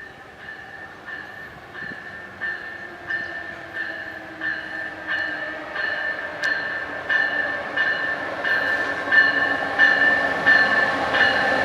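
Passenger train drawing near with a bell ringing about one and a half strokes a second, growing steadily louder, while a lower whine from the train slowly falls in pitch as it slows.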